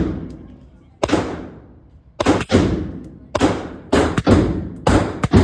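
A string of about nine gunshots at uneven intervals, some in quick pairs, each with a ringing tail. These are most likely rifle shots fired from the shoulder on a shooting range.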